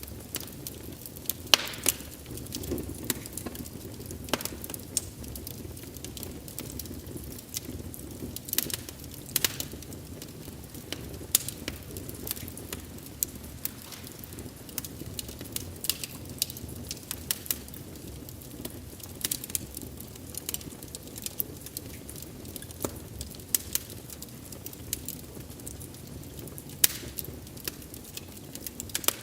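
Wood fire burning and crackling: a steady low rumble of flames with irregular sharp pops and snaps, several loud ones scattered throughout.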